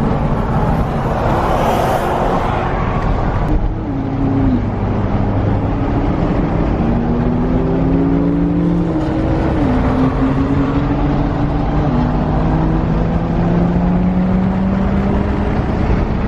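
Car engines on a highway: one engine's note climbs steadily as it accelerates, drops twice like upshifts, then climbs again. A car passes with a rushing swell in the first few seconds.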